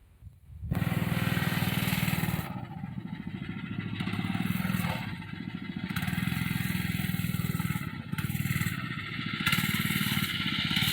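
Mini bike's small engine starts to be heard about a second in, running with a fast, even pulse that grows louder and quieter several times as the throttle is opened and eased off.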